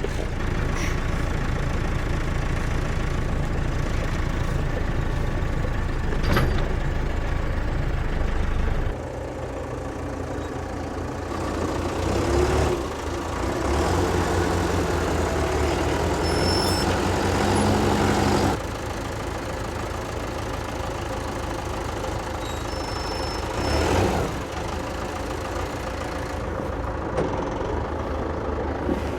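Tractor engine running, its note and load shifting several times. A couple of short knocks are heard along the way.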